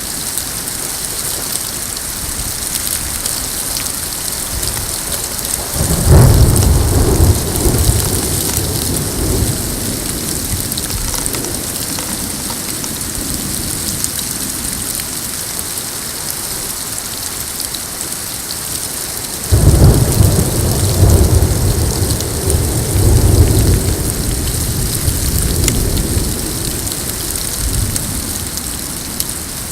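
Steady hiss of rain falling, with two claps of thunder: one about six seconds in and another about twenty seconds in, each starting suddenly and rumbling on for several seconds.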